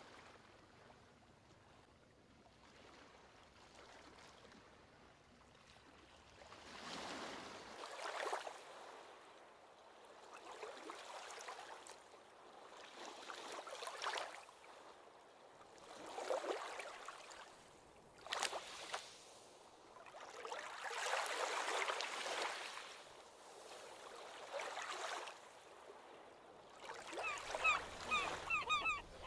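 Ocean waves washing onto a beach, each surge swelling and fading every few seconds, with a sharper splash or crack near the middle. Near the end a bird gives a quick series of short, honking calls.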